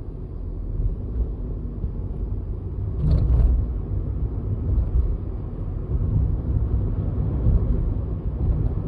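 Low, steady rumble of a car driving, heard from inside the cabin, with a brief louder knock about three seconds in.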